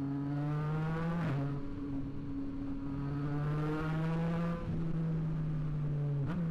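Yamaha MT-09 SP's inline three-cylinder engine through a Blackwidow aftermarket exhaust, accelerating: the engine note climbs in pitch, drops sharply with a gear change about a second in, climbs again, and shifts once more near the end.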